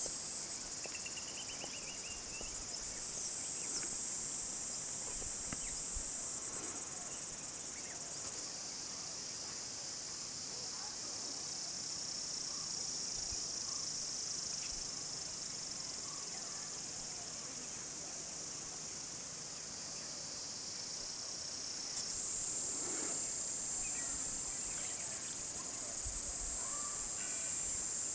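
Steady, high-pitched chorus of insects, its upper part dropping out about eight seconds in and coming back abruptly about twenty-two seconds in.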